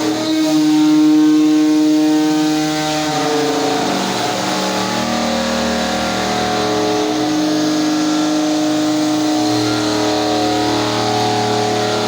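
Woodworking CNC router running. Its motors whine in steady tones that step to a new pitch every few seconds as the machine changes its moves.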